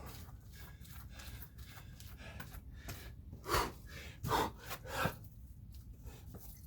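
A man gasping heavily for breath, out of breath from hard exercise: three loud breaths about a second apart in the middle, with quieter breathing before them. A steady low rumble runs underneath.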